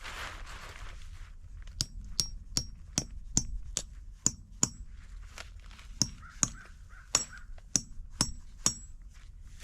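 A steady series of sharp metallic clinks, about two and a half a second, each with a brief high ring, like metal being struck repeatedly.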